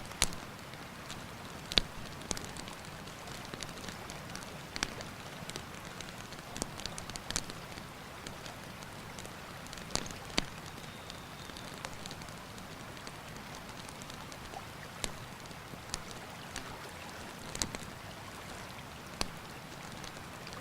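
Wood campfire crackling, with sharp pops at irregular intervals, several of them loud, over the steady rush of a river.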